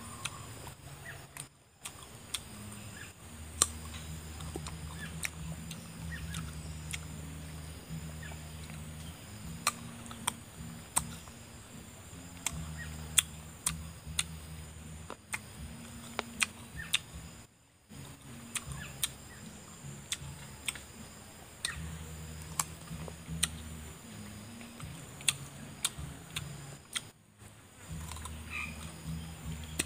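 A person eating: scattered sharp clicks and crunches of chewing and mouth sounds, over a low hum that comes and goes.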